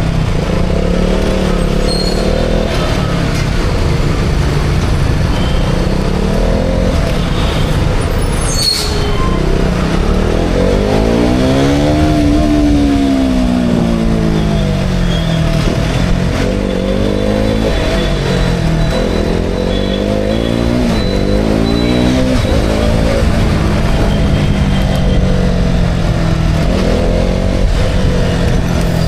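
KTM Duke 200's single-cylinder engine under way on the road, its revs climbing and dropping again and again. About ten seconds in there is a long climb in revs that eases off over the next few seconds.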